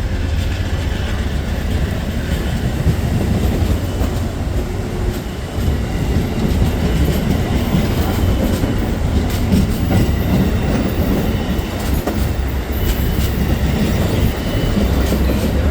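Amtrak passenger cars rolling past at low speed as the train pulls out: a steady low rumble of steel wheels on rail, with a stream of short clicks and knocks from the trucks.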